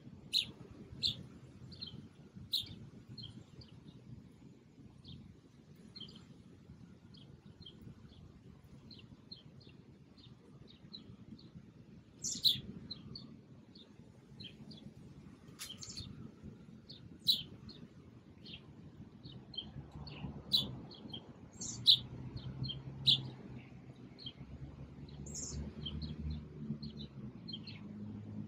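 Small songbirds chirping, many short high calls scattered throughout, a few of them louder and closer. A low hum builds in the last few seconds.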